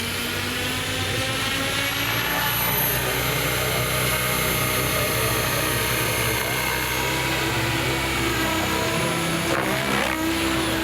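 Radio-controlled model aircraft in flight: a steady engine whine made of several tones that slowly shift in pitch as it moves around, with a quick pitch swing near the end as it passes close.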